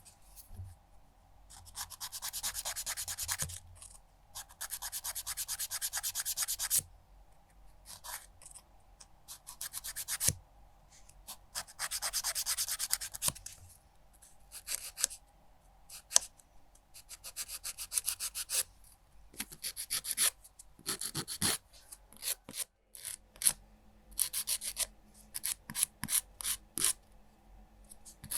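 Nail file rasping across a fingernail in rapid back-and-forth strokes, in runs of a few seconds with short pauses between, breaking into shorter bursts and single strokes in the second half.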